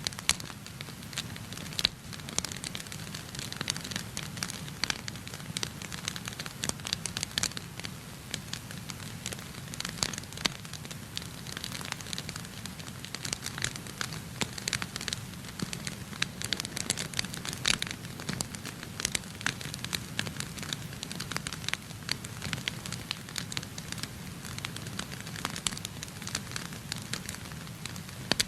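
Wood burning in a fireplace, crackling with frequent sharp pops and snaps over a steady low rumble of the fire.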